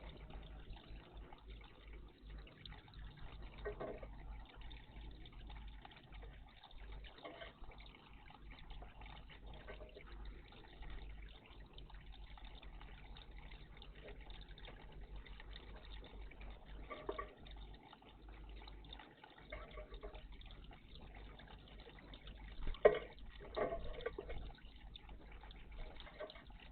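Small birds bathing in a bird bath: scattered splashes and drips of water, with a louder burst of splashing about 23 seconds in.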